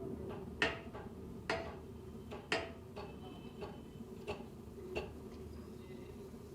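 A series of light, sharp taps or clicks, about one a second and irregularly spaced, over a faint steady hum.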